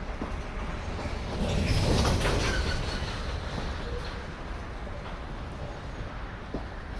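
Freight cars of a mixed freight train rolling past: a steady rumble of wheels on rail with a few sharp clicks. The rumble swells louder for a second or so about a second and a half in.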